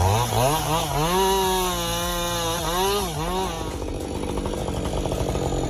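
A chainsaw engine revs up and holds at high speed, its pitch dipping and rising again with the throttle. After about three and a half seconds it turns to a rougher, steady running sound, typical of the chain biting into wood.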